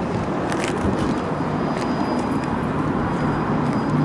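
Steady road-traffic noise: a continuous rumble of passing vehicles with a few faint clicks.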